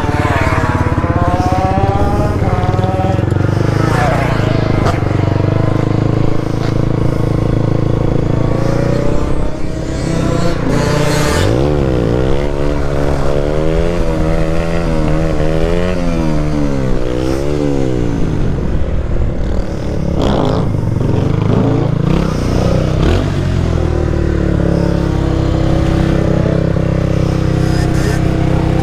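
Motorcycle engines running and revving. In the middle, one engine's pitch rises and falls about once a second for several seconds.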